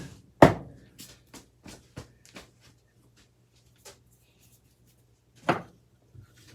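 Knocks and clicks of ceiling fan parts being handled during a scrap teardown: a loud knock about half a second in, a run of lighter clicks over the next two seconds, and another loud knock near the end, over a faint steady hum.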